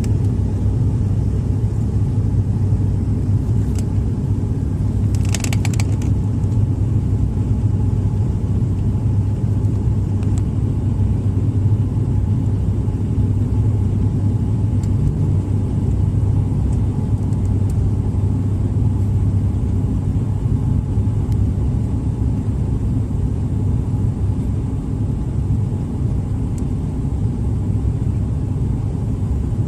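Airliner cabin noise on final approach: a steady low drone of engines and airflow, with a brief rattle about five seconds in.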